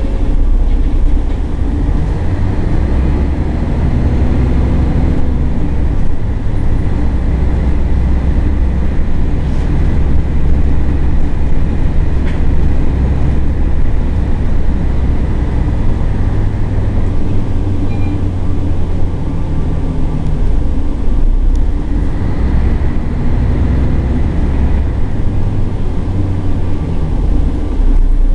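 Scania L113CRL city bus's diesel engine running while the bus is under way: a loud, deep drone that swells and eases as it drives.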